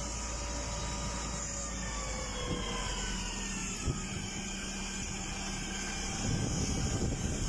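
An aircraft flying past, its engine tone slowly falling in pitch as it goes by. Wind buffets the microphone with low rumbles near the end.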